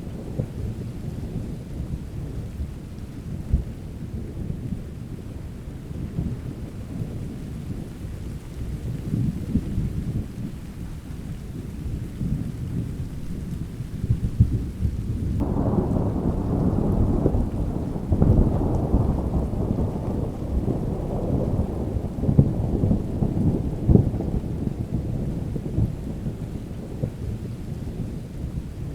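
Thunderstorm: steady rain with deep, continuous rumbling thunder, which swells suddenly about halfway through and rolls on for several seconds before easing.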